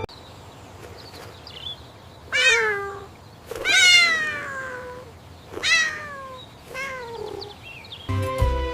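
A cat meowing four times, the second meow long and falling in pitch; music comes back in near the end.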